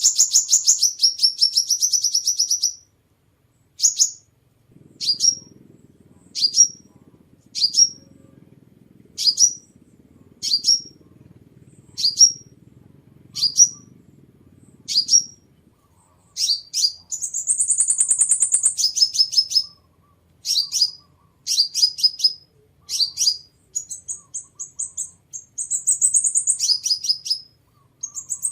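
Sunbird calling: short, sharp, high chirps that each drop in pitch, repeated about every second and a half, then coming faster toward the end. A rapid buzzy trill opens the sequence, and a higher one comes about two-thirds of the way in.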